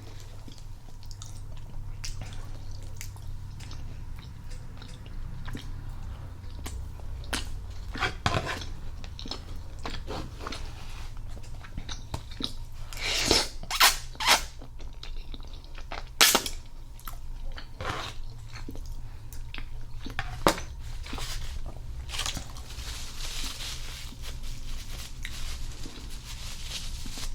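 Close-miked chewing and wet mouth sounds of someone eating spaghetti in meat sauce, with scattered short clicks and smacks and a few sharper clicks about halfway through. A steady low hum runs underneath.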